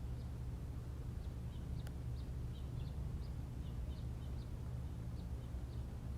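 Small birds chirping: short, high chirps scattered throughout, over a steady low hum.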